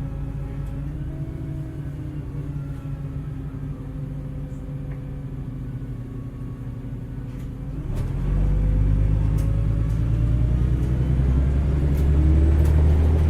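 Heuliez GX317 LPG city bus heard from on board: the engine runs steadily, then about eight seconds in it grows louder as the bus accelerates, its pitch rising over the last few seconds.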